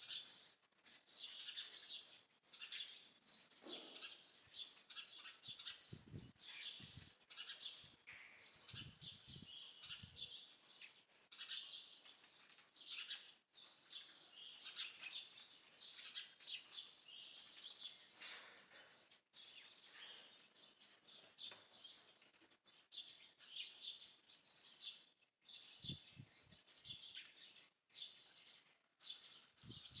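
Faint birdsong: many small birds chirping and calling all through. A few soft low thumps come about six seconds in, again around nine to ten seconds, and near twenty-six seconds.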